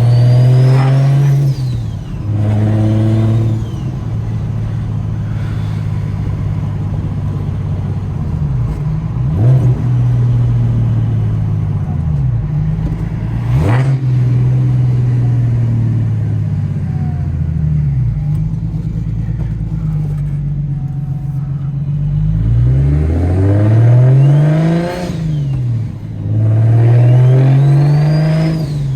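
BMW N54 inline-six with a DocRace single-turbo kit pulling hard through the gears, its pitch climbing in several runs with a high whistle rising alongside each pull, then cruising more steadily in between. A single sharp crack about halfway through.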